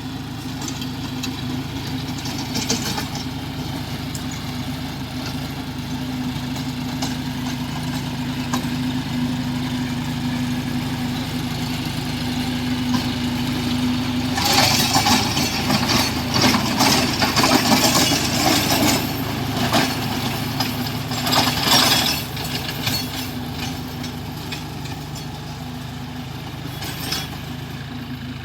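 John Deere tractor's diesel engine running steadily, with a louder clattering rattle joining for several seconds past the middle and then easing off.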